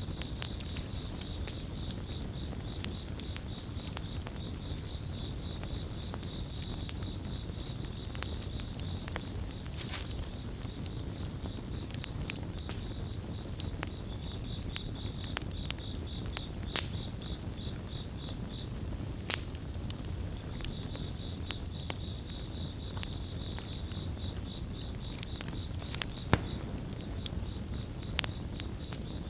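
Campfire crackling, with scattered sharp pops over a low steady rumble, while crickets chirp in a high, rapidly pulsing trill that stops for a couple of seconds just past the middle.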